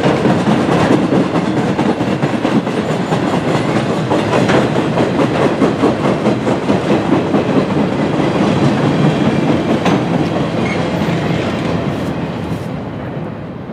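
Work train of flatcars loaded with track-maintenance machinery rolling past, steel wheels clacking over rail joints with a steady rumble. The sound fades as the last car passes near the end.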